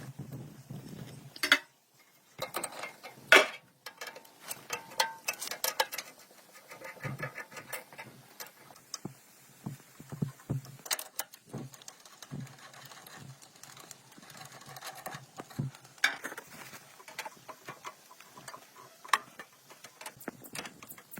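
Irregular clicks and knocks of hand-tool work, with two sharper knocks in the first few seconds.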